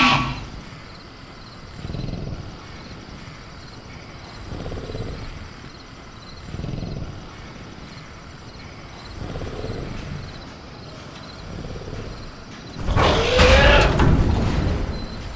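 Designed velociraptor creature sound: a call trails off at the start, then low rumbling growls come about every two to three seconds. Near the end comes a loud, screeching roar, the loudest sound here. Faint crickets chirp steadily underneath.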